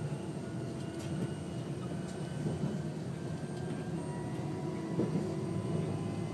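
Steady running noise inside the driver's cab of an electric train under way: a continuous low drone with a few faint, steady high whines over it.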